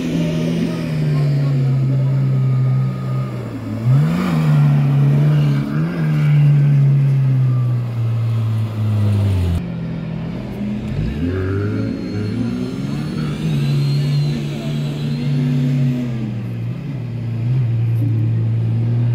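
Off-road vehicle engine running steadily, with quick revs up and down about four and six seconds in. The engine note drops away near the middle, and a rising rev follows a second or so later before it settles again.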